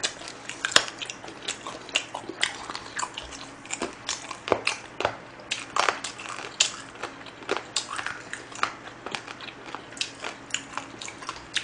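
Close-miked chewing, with irregular mouth clicks and smacks a few times a second, from a person eating grilled pork belly and spicy chewy jjolmyeon noodles.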